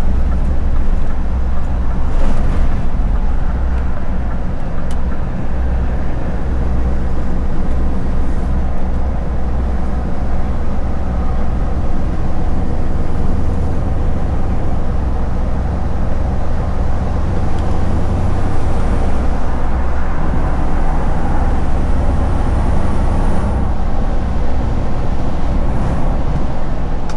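Scania V8 lorry running steadily on the road: an even low engine drone with road noise, unchanged throughout.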